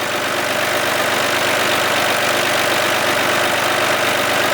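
Homemade hydraulic test rig for a U650M tractor power-steering unit running steadily, its pump drive turning over at idle and pumping oil through the servo.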